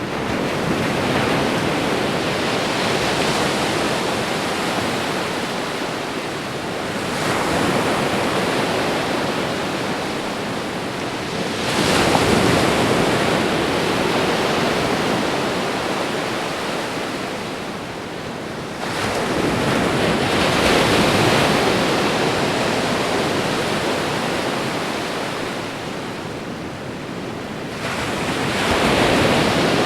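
Ocean surf: waves breaking one after another, five times, each a sudden rush of noise that swells and then slowly fades before the next wave crashes.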